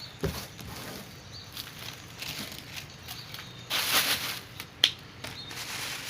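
Dry swiftlet nests being handled and sorted, with light rustling and clicking, a louder rustle a little before the middle of the second half, and one sharp click near 5 seconds.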